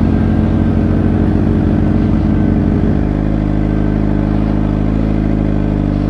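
Suzuki GSX-R 600's inline-four engine running at low revs, its note settling to a steadier pitch about three seconds in.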